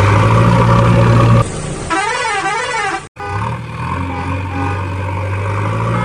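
Steady vehicle engine hum. About a second and a half in it is cut by a warbling, siren-like tone that swings up and down in pitch for about a second and a half. After a brief dropout the engine hum resumes.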